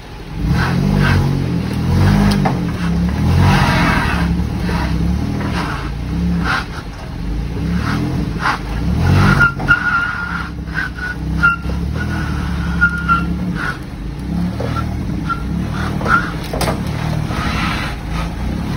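Car engine revving hard while the car strains against a tow truck's wheel lift, with tires spinning and a thin tire squeal for a few seconds around the middle, plus scattered knocks.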